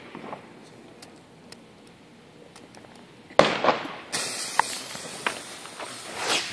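Consumer fireworks going off: a few faint crackles, then a sudden loud burst about three and a half seconds in, followed by hissing with several sharp pops and another loud surge near the end.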